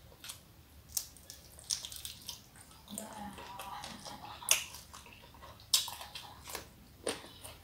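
Someone eating sambal shrimp by hand: wet chewing with a run of sharp mouth smacks and crunches, the loudest about four and a half and six seconds in.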